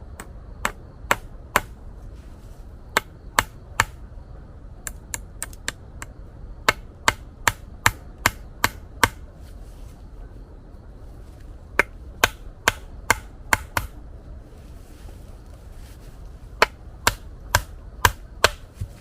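Sharp chopping or knocking strokes in short runs, about two a second, with pauses of a second or two between runs, over a steady low rumble.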